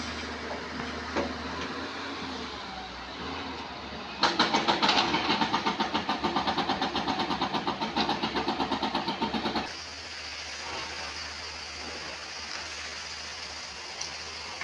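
Excavator engine running steadily, with its hydraulic rock breaker hammering stone in a fast, even run of blows, about seven a second, that starts about four seconds in and stops about five seconds later.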